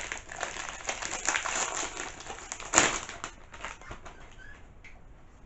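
Rustling and crinkling of a perfume gift box's packaging being handled and opened, with one sharp click a little before three seconds in; the handling is quieter after about three seconds.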